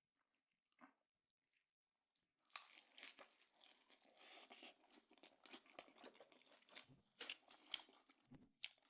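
Quiet close-up eating sounds: a person chewing a mouthful of tashreeb, broth-soaked bread with beef cheek, with many small wet clicks and smacks. The chewing starts about two and a half seconds in and runs until near the end.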